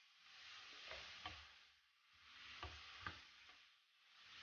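Onions, garlic and carrots frying in vegetable oil in a frying pan: a faint sizzle that swells and fades as they are stirred, with a few light clicks of the spoon against the pan.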